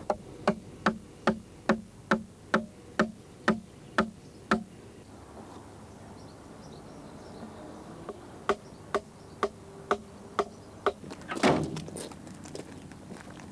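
Repeated sharp knocks of blows struck with a hand tool, just over two a second: a run of about eleven, a pause, then six more, followed near the end by a louder, longer burst of noise.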